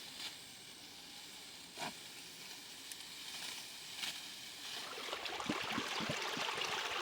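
A few separate knocks, then water splashing and trickling that grows louder from about five seconds in.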